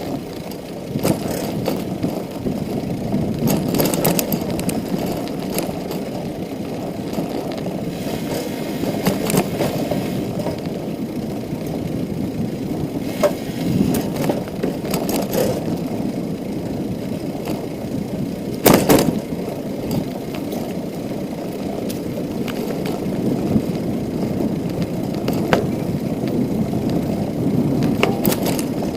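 Bicycle rolling over a rough forest path: a steady tyre rumble with scattered rattles and clicks from the bike, and a sharp knock about nineteen seconds in.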